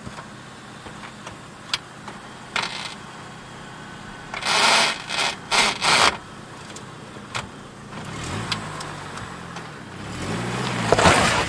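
Sports car starter grinding in a run of short, harsh bursts about halfway through. Then the engine fires and revs, rising and falling in pitch, and the loudest rev comes near the end.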